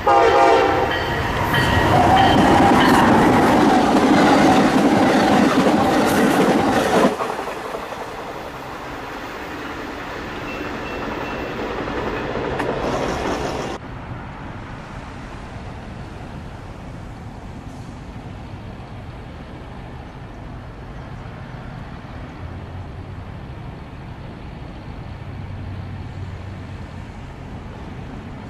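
A train passing close by. A pitched tone falls as the head end goes by in the first second, then the wheels run loudly over the rails for several seconds. It eases off about 7 s in and cuts off abruptly around 14 s, leaving a low steady rumble.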